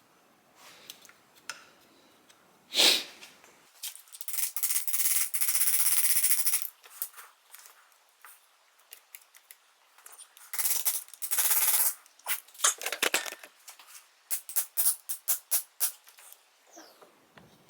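Hand work on a motorcycle carburetor bank: clicks, knocks and scraping of small metal parts and tools, with two longer stretches of steady rubbing or hissing noise and a quick run of clicks near the end.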